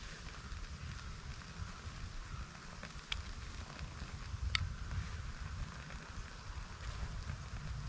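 Small fire of wet fire tinder and fatwood, just lit, burning with a light crackle and two sharp pops about three and four and a half seconds in.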